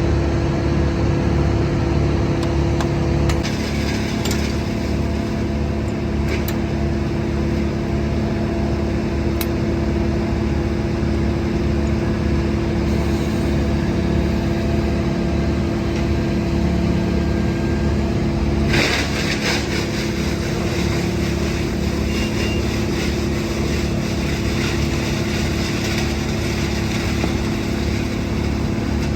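Heavy equipment engine running steadily at a constant speed, with a few sharp clicks in the first ten seconds and a rougher, noisier stretch starting a little past the middle.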